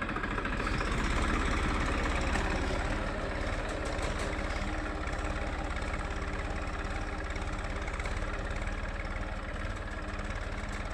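Massey Ferguson 241 DI tractor's three-cylinder diesel engine running steadily with an even low throb, a little louder over the first few seconds.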